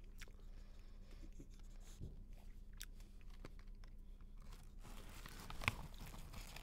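Quiet crunching of popcorn being chewed. About five seconds in, a denser crinkling rustle as a hand reaches into the plastic popcorn bag.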